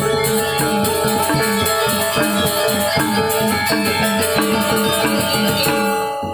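Balinese gamelan gong ensemble playing: bronze metallophones ringing in a fast, even rhythm over sustained gong tones, with crisp cymbal-like strokes on top. The music dips briefly near the end before resuming.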